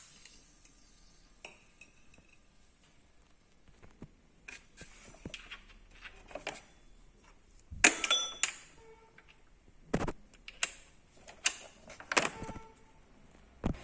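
Scattered clicks and metallic clinks of hand tools and metal parts being handled, some ringing briefly. There are louder clanks about eight seconds in and around twelve seconds.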